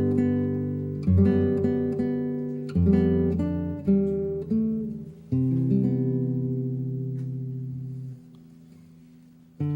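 Instrumental introduction of a folk song on acoustic guitar: chords strummed and left to ring, and a long held chord about halfway through that fades away, then a short hush before the next phrase starts at the very end.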